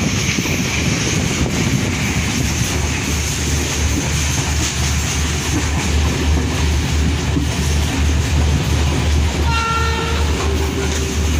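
Uttara Devi passenger train running at speed, heard at an open carriage window: a steady rush of wind and rail noise over a low, pulsing rumble of the wheels on the track. Near the end the train's horn sounds briefly, then holds on a lower note, faint under the running noise.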